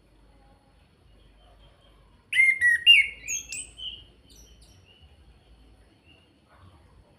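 Chestnut-capped thrush (Anis Kembang) singing: a loud burst of quick, varied whistled notes lasting about two seconds, starting a couple of seconds in, with faint short chirps around it.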